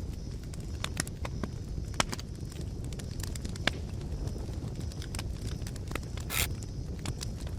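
Wood campfire crackling: irregular sharp pops and snaps over a low steady rumble, with a short hissing flare about six seconds in.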